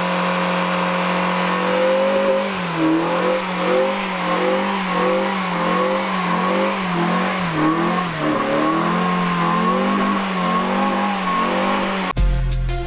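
Mazda MX-5 Miata's four-cylinder engine held at high revs during a burnout, steady at first, then rising and falling in repeated swells as the throttle is worked, then steady again. Music with a drum beat cuts in abruptly near the end.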